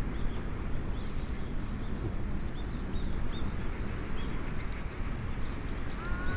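Small birds chirping over and over in short, high calls above a steady low outdoor rush.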